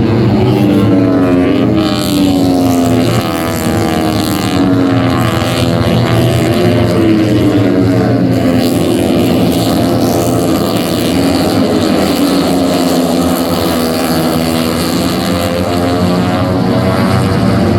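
MotoGP racing motorcycles' four-cylinder engines running at high revs, the pitch rising and falling again and again as the bikes accelerate, shift and brake.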